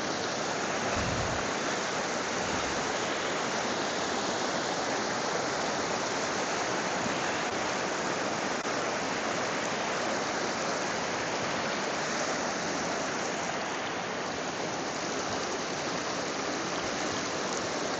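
Steady rushing of a forest river running over rocks, an even noise without letup.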